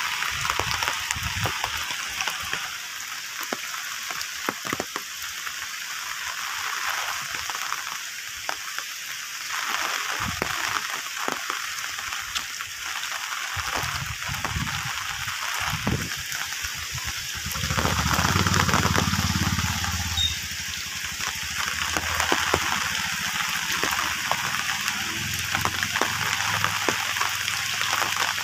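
Steady rain hiss with scattered drop ticks, and a low rumble for a couple of seconds about two-thirds of the way in.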